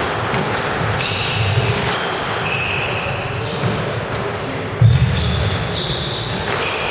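Squash rally: sharp hits of the ball off racket and walls and short high squeaks of players' shoes on the court floor, over a steady hall background. A louder thud comes about two-thirds of the way through.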